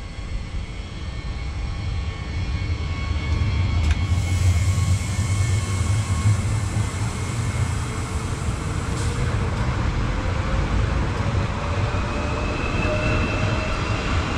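SNCF TER train passing over a level crossing: a loud, steady low rumble that swells a few seconds in, with a faint whine rising in pitch through the second half.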